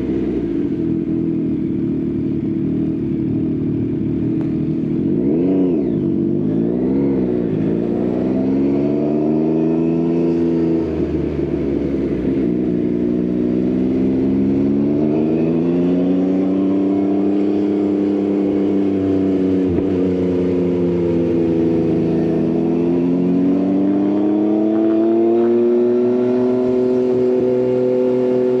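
Yamaha XSR900's inline-three engine through an Akrapovič exhaust, ridden hard: the revs climb and drop again and again through gear changes, with two quick throttle blips about five seconds in.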